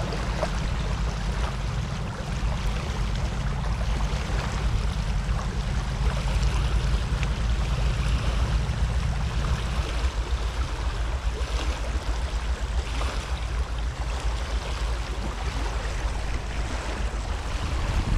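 Steady rush of water pouring through a rain-swollen outflow, with a strong low rumble underneath that eases a little about halfway through.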